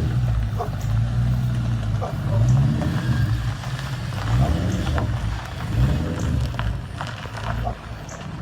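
A 2004 Ford Mustang GT's V8 engine running, with a steady low idle broken by three or four short revs that rise and fall.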